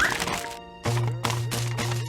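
Cartoon soundtrack: background music with slapstick sound effects, a quick rising glide at the start, then four sharp whacks about a third of a second apart over a low steady hum.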